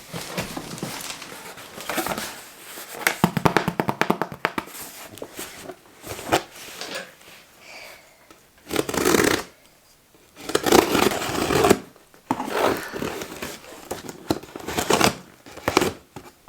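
A cardboard delivery box and its packaging being opened by hand: rustling, scraping and tearing in irregular bursts, with a quick run of crackling about three seconds in and the loudest handling near the middle.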